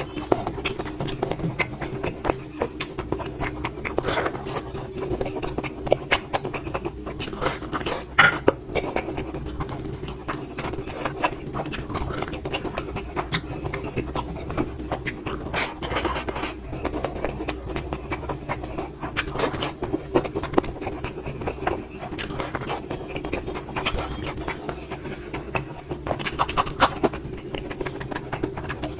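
Eating at a plate: irregular scraping and clicking as food is moved and picked up, over a steady low hum.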